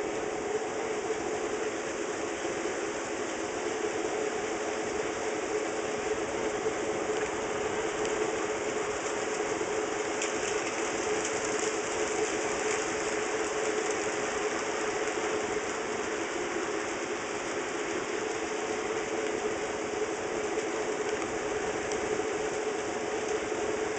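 HO scale model train running on the track: a steady whir of the locomotive's small electric motor and gearing, with the rolling noise of wheels on rail.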